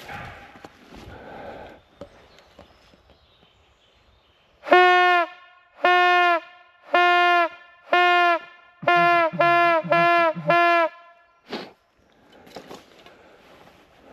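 Hunting horn blown in a rhythmic call on one pitch: four half-second blasts, then four quicker ones and a last short toot, each note sagging slightly in pitch as it ends.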